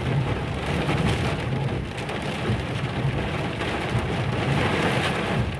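Heavy rain falling steadily in a thunderstorm, an even hiss with no break.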